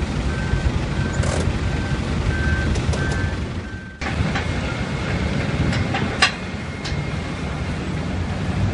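Heavy machinery running with a steady low engine rumble, with a short high beep repeating about twice a second like a warning or reversing alarm. About halfway through the sound cuts and resumes with a steady high whine and a few sharp knocks.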